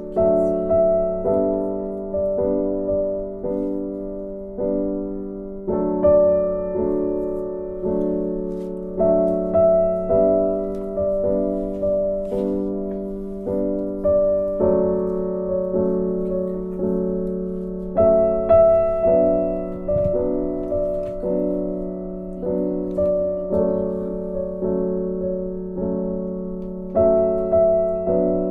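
Gentle background music played on piano: repeated notes that strike and fade at an even pace.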